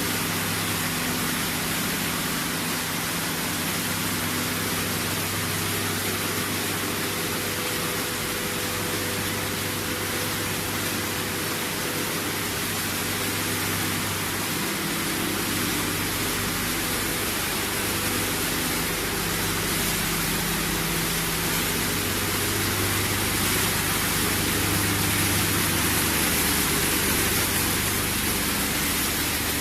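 Machinery of a PET bottle washing and recycling line running: a steady hiss with several low motor hum tones that swell and fade.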